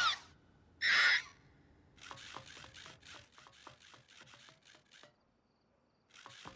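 Cartoon sound effects: a short effect at the start and a brighter one about a second in, then a run of quick mechanical clicks, about five a second, that stops, goes silent for a second and starts again near the end.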